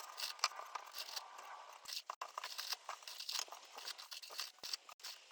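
Plastic bag of roofing screws crinkling as it is handled, with irregular crackles and small clicks.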